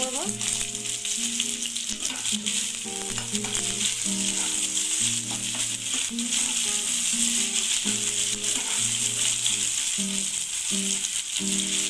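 Sliced onions sizzling in hot mustard oil as they fry, being stirred in the pan, over soft background music.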